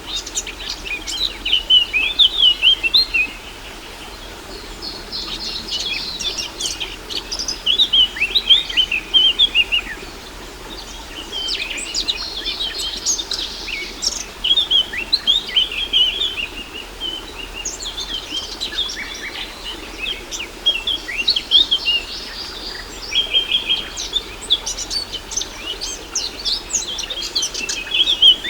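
Several songbirds chirping and trilling in quick overlapping phrases, in bursts that come and go every few seconds, over a faint steady hiss.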